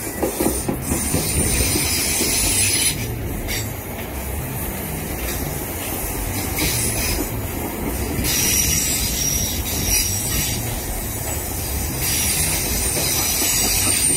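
Two coupled Class 465 Networker electric multiple units passing close by on curved track, with a steady rumble of wheels on rails and a few sharp clicks. A thin, high wheel squeal from the curve grows stronger in the second half.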